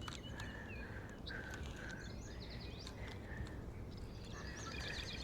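Birds singing: runs of short, quickly repeated notes with some higher chirps, heard twice, over a steady low rumble.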